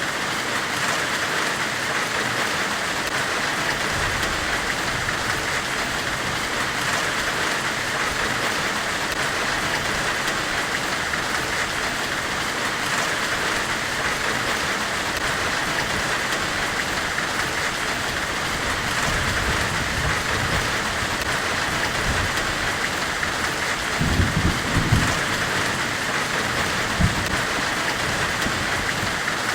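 Steady forge-weld hiss, an even white-noise wash with a brighter band in the upper middle. A few short low thumps come about four fifths of the way in.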